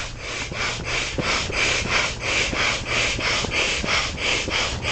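Manual air pump being worked in quick strokes, about four a second, each stroke a short rush of air hissing into an air mattress being inflated.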